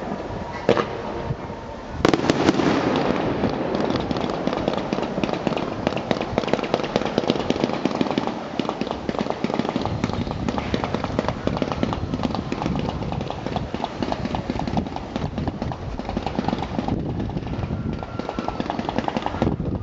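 One bang about a second in. Then, from about two seconds, a ground-fired fireworks battery goes off in a dense, rapid crackling of many small pops, which thins slightly near the end.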